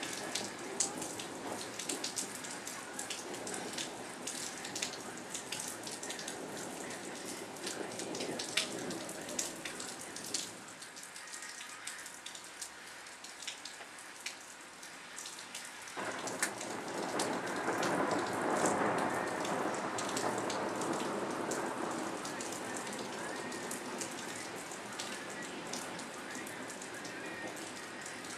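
Steady rain with many individual drops ticking. About halfway through the sound changes abruptly and the rain grows louder for several seconds before easing back.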